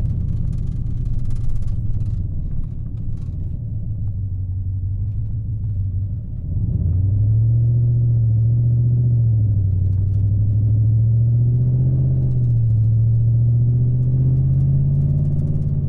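Dodge Charger Scat Pack's 6.4-litre Hemi V8 running while driving, heard from inside the car as a low drone. About six and a half seconds in it grows louder and settles into a steady hum that rises and falls gently in pitch.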